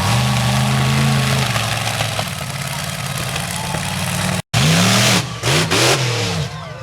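Monster truck's supercharged V8 engine running at a steady high speed, then, after a short break about four and a half seconds in, revving hard in quick bursts that rise and fall in pitch.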